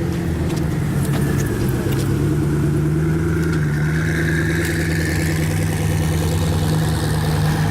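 Car engine running at a steady speed, with a low, even hum.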